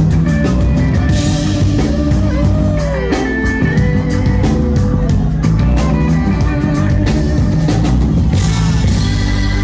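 Rock band playing: electric guitar with bending notes over bass and a steady drum beat.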